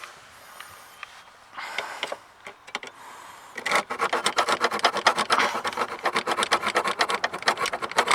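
Hand sawing with quick, even back-and-forth strokes, about five a second. It starts faint with a few scrapes and becomes steady and louder partway through, as the cut is finished.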